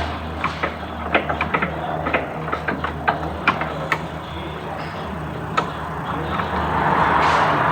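Hand tools clicking and tapping irregularly on metal parts under the hood, over a steady low hum. Near the end a rushing noise swells.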